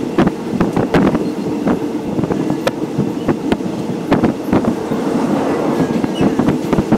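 Passenger train carriage running along the track: a steady rumble with frequent, irregular clacks of the wheels over the rails.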